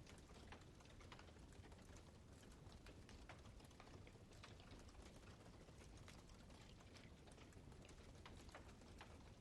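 Campfire crackling faintly: irregular small pops and snaps, several a second, over a low hiss.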